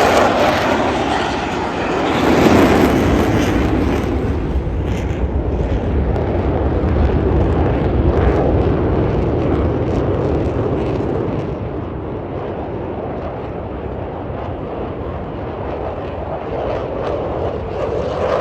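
Jet noise from Blue Angels F/A-18 Super Hornets flying past, loudest about two to three seconds in. The high hiss then fades as the jets move away, and from about twelve seconds in only a lower rumble is left.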